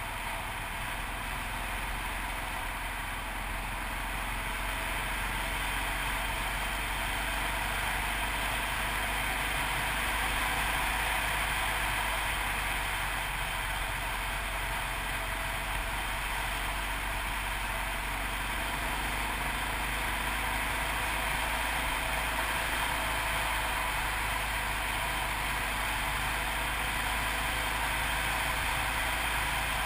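Yamaha TT600RE motorcycle's single-cylinder engine running steadily on the move, mixed with steady wind and road noise.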